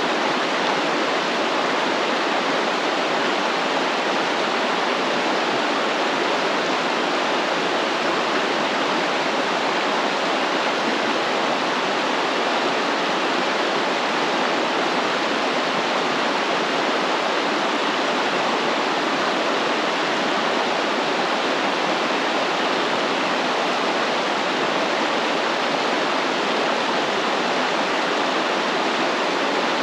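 Stream water flowing and rushing over rocks, a steady even rush without breaks.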